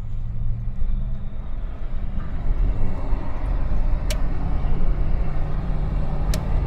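1970 Buick Estate Wagon's 455 V8 with its single exhaust running steadily at cruising speed, with road noise, heard from inside the cabin. Two brief sharp clicks come in the second half.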